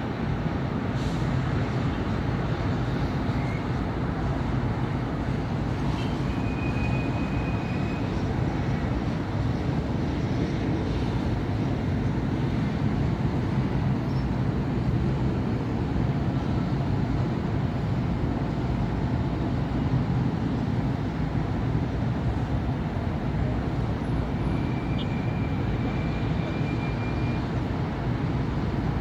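Steady city traffic on a busy avenue: cars and buses passing in a constant low rumble.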